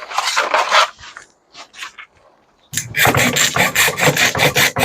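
Rapid back-and-forth scraping, about five strokes a second from a little past the middle, after a short scrape at the start. Tape and coating are being scraped off a microwave oven transformer's winding to see whether the wire is copper.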